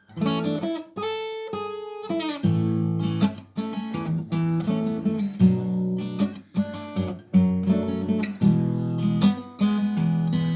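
Acoustic guitar playing a fingerstyle instrumental. It opens with a few single notes left to ring, then moves into chords plucked in a steady pattern.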